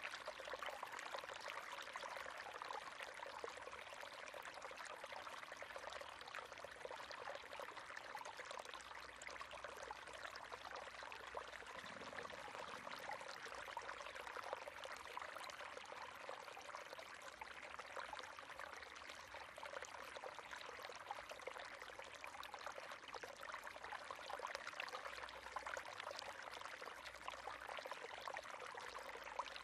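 River water running and splashing steadily over stones, a continuous burbling rush.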